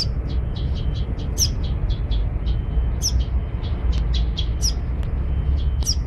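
Fledgling songbird chirping: short high chirps, about five a second, with a louder call that sweeps down in pitch about every second and a half. A steady low rumble runs underneath.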